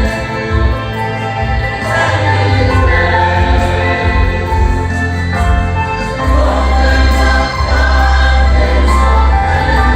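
Choir singing a gospel worship song over instrumental backing with a strong, steady bass line.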